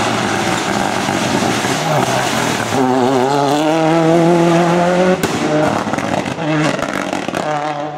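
Race car engine at high revs on a hillclimb run: its pitch climbs steadily for a couple of seconds in the middle, breaks off with a sharp crack, then comes back in shorter bursts of revs near the end.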